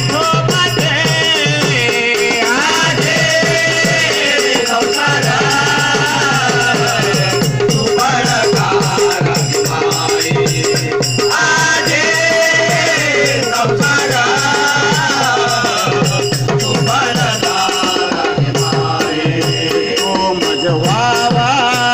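Marathi devotional bhajan music: a winding melodic line over steady jingling percussion.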